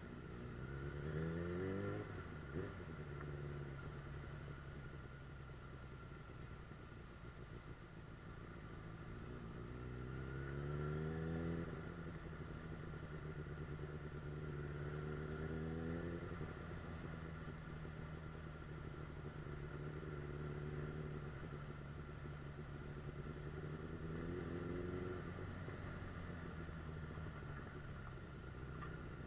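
Suzuki GSF 600 Bandit S's inline-four engine running under way, its revs climbing several times: about a second in, around ten seconds in, again shortly after, and near the end. Each climb ends in a sudden drop as it shifts up, and the engine runs at steady revs in between.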